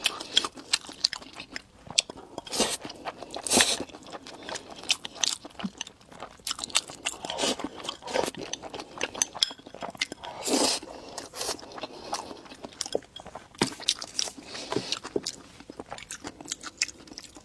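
Close-miked eating sounds: chewing and crunching, with many sharp mouth clicks and a few louder, longer bursts.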